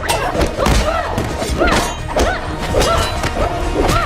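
Fight sound effects: a rapid run of punches, kicks and body thuds with short grunts, over an action music score.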